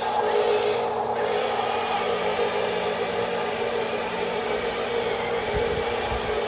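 Small electric motors and plastic gearboxes of radio-controlled model trucks whirring steadily, with a few low thumps near the end.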